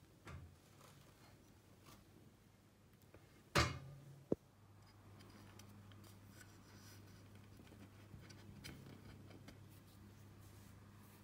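Faint handling sounds with a single knock about three and a half seconds in, followed shortly by a short sharp click, then a low steady hum.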